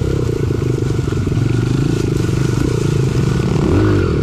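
Small four-stroke pit bike engine running steadily under way as the bike is ridden, its pitch rising and falling a little with the throttle.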